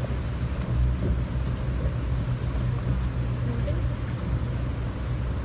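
Tour boat's engine running steadily underway, a constant low hum, with wind and water noise over it.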